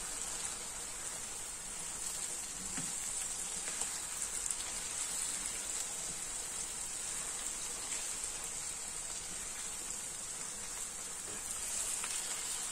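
Rice and spices frying in oil in a pan, a steady fine sizzle, as they are stirred with a silicone spatula, giving a few faint scrapes.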